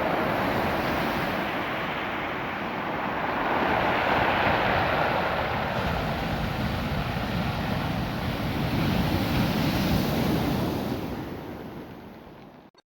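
Ocean surf washing over a beach of small rounded stones, a continuous rushing wash that swells and eases, then fades out near the end.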